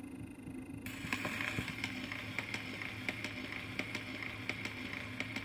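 Steady hiss and low hum with many faint scattered clicks and crackles; the hiss brightens about a second in, as a faint high whine stops.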